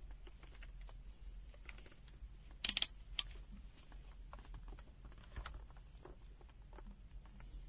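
Small clicks and taps of a multimeter's test probes being handled against a resistor, with a sharp cluster of clicks nearly three seconds in and one more just after.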